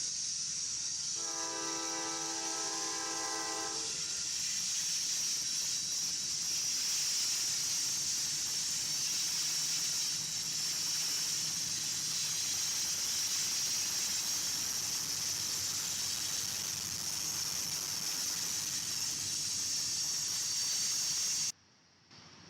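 Train horn sounding one chord of several notes for nearly three seconds, about a second in, over the steady rush and hiss of a train rolling by on the rails. The sound cuts off suddenly near the end.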